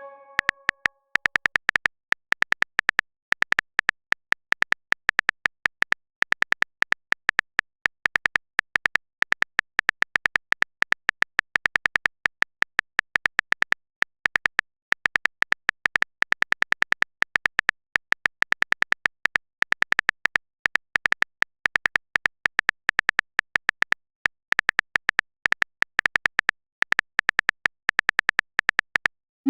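Rapid short clicks of a phone-keyboard typing sound effect, coming several a second in runs with short pauses.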